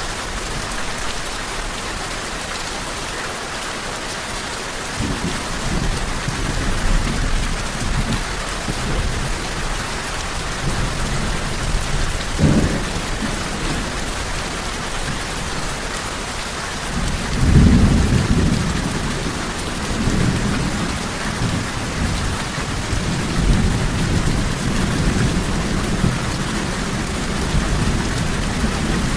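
Steady rain falling, with low rolling thunder that comes in about five seconds in, swells to its loudest a little past halfway and keeps rumbling on.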